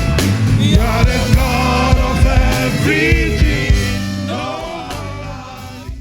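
Live gospel praise music: singers over a band with a sustained bass, fading out over the last two seconds.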